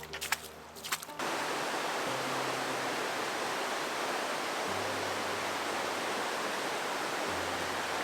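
Rushing water of a waterfall, a steady loud hiss that cuts in suddenly about a second in, over faint background music.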